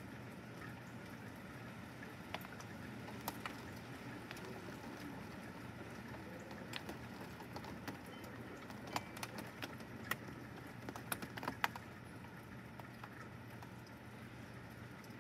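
Steady hiss of rain and wind in a thunderstorm, heard through a window, with scattered sharp taps of raindrops hitting the glass, most of them clustered a few seconds past the middle.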